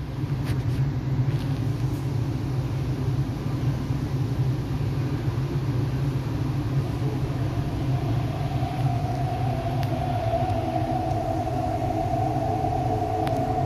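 MTR East Rail Line R-Train electric multiple unit heard from inside the carriage, pulling out and gathering speed: a steady low rumble from the running gear, with the traction motors' whine coming in about two-thirds of the way through and rising slightly in pitch.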